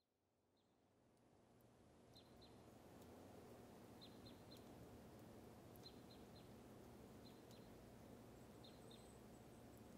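Faint outdoor ambience fading in over the first few seconds: a steady low background noise with short, high bird chirps, often in pairs, every second or so.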